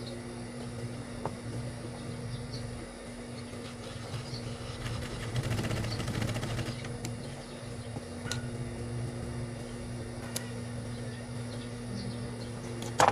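High-speed sewing machine with its motor humming steadily, running a short burst of rapid stitching about five seconds in while sewing a lock stitch at the base of a shorts zipper. A few small clicks, and a sharp knock near the end.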